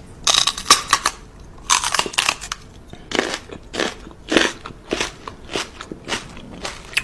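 Crisp, loud crunching chews, irregular at first and then steady at about two crunches a second, as of something crunchy being eaten.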